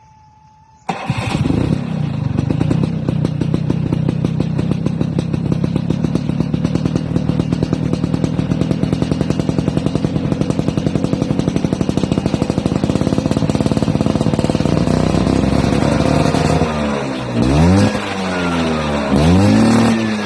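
Vespa scooter engine running through a long right-side GTX aftermarket exhaust silencer: it starts about a second in and idles with an even, fast pulsing beat, then is revved up and let back down twice near the end.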